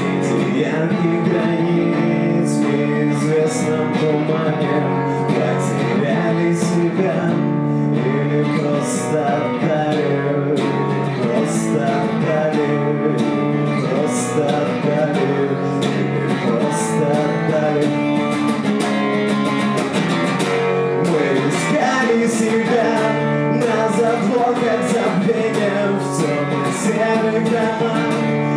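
Live acoustic guitar song: a strummed acoustic guitar with a man singing over it.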